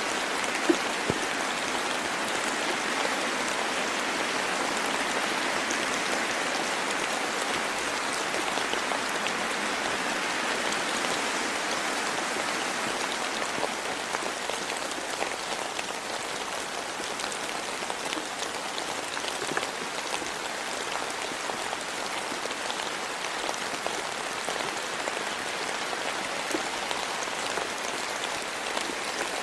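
Steady rain falling, with two sharp ticks about a second in.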